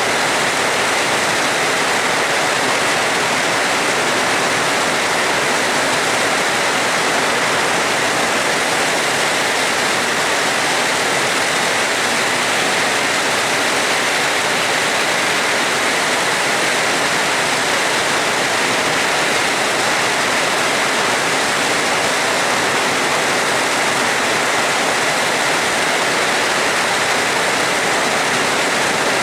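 Steady heavy rain, an even hiss with no change and no thunder.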